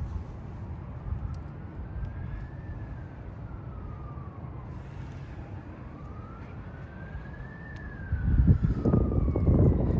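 An emergency-vehicle siren wailing slowly up and down over a steady low vehicle rumble. About eight seconds in, a loud low engine surge takes over, fitting the Maserati Levante GTS's Ferrari-built twin-turbo V8 being revved or accelerating hard.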